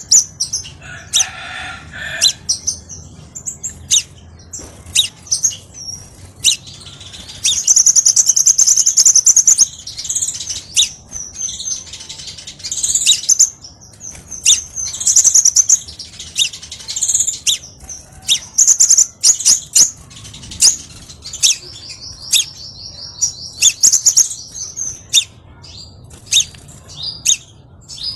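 Crimson sunbird song: a rapid string of high, sharp chirps and trills, with two longer fast trills, one about eight seconds in and one near the end.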